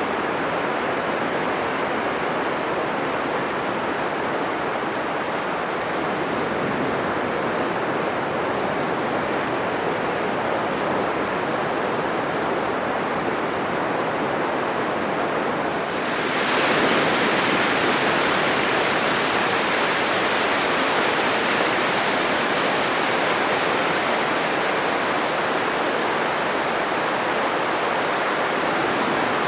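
Atlantic surf breaking on a sandy beach: a steady, dense rush of waves. About halfway through the sound becomes abruptly brighter and a little louder.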